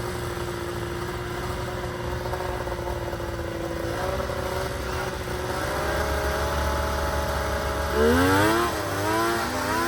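Snowmobile engine running at a steady idle, its pitch stepping up slightly twice, then revved hard in quick up-and-down blips about eight seconds in, the loudest moment.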